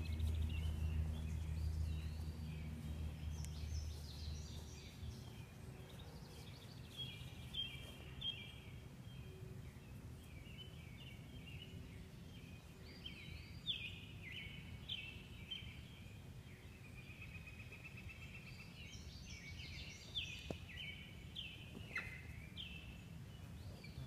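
Songbirds singing in a quick run of short chirps and warbles. Under them, a low rumble fades out about five seconds in.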